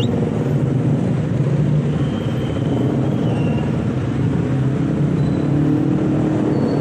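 Steady low rumble of engine or traffic noise, with no bulbul song, apart from one faint thin whistle about two to three seconds in.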